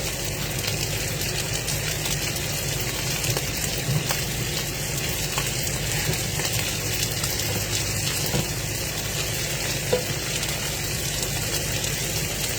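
Food sizzling steadily in a frying pan, with a fine crackle and an odd small click.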